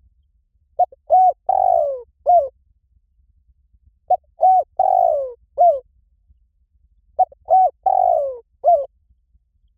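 Spotted dove cooing: three repeats of its song phrase, about three seconds apart, each two short coos, a longer coo that falls in pitch, and one last short coo.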